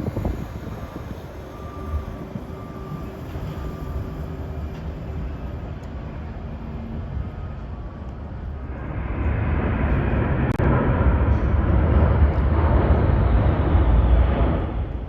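Jet airliner engines running. The rumble swells into a loud, broad roar about nine seconds in and eases off near the end.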